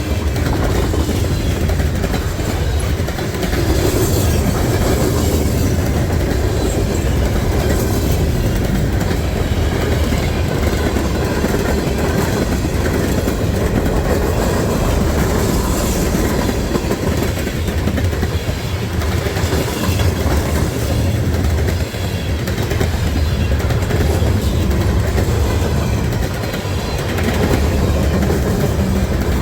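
Freight train rolling past steadily, steel wheels clacking over rail joints over a constant low rumble.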